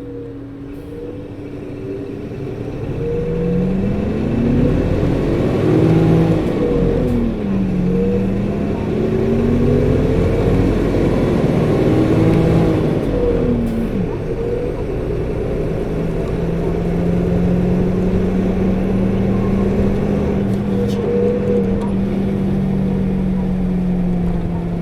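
Running sound of a 2008 PKG-RA274KAN city bus: its diesel engine and cooling coupling fan climb in pitch as the bus pulls away, drop back at a gear change, climb again and drop at the next change, then settle into a steady cruise. The coupling fan runs with a loud whir that is high for the engine speed, a known quirk of this particular bus.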